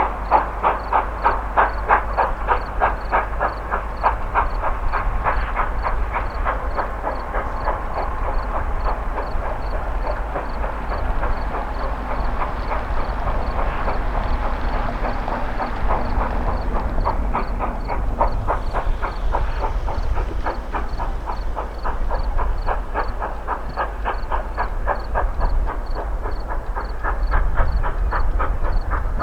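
2-8-2 steam locomotive running, with a rapid, even beat of about four strokes a second.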